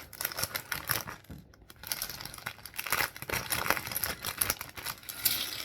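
Plastic Lego parts bag crinkling as it is handled and torn open, in quick irregular crackles.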